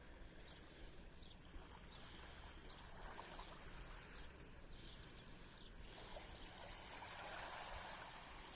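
Faint, steady outdoor background noise, an even hiss with a few faint short chirps.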